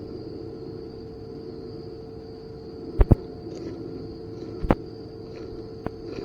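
Outdoor background with a steady high drone, broken by a few sharp loud cracks: a quick pair about halfway through, then two single ones.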